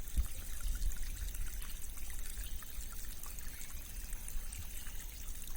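Rain-swollen stream flowing and trickling steadily over a low rumble.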